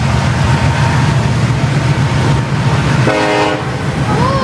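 Freight cars rolling past at speed: a steady rumble of steel wheels on the rail joints. About three seconds in there is a short horn blast lasting about half a second.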